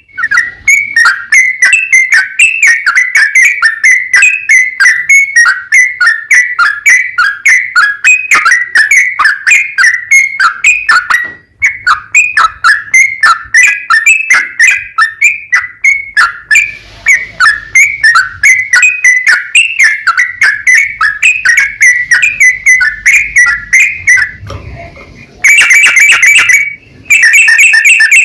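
Yellow-vented bulbul (trucukan) singing a long, rapid run of short whistled notes, several a second: the continuous 'ropel' song of a bird in full voice. It breaks off briefly about eleven seconds in and again for about a second near the end.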